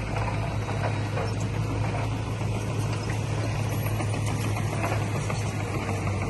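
Heavy diesel earthmoving engine running steadily under a low hum, with faint scattered clicks over it.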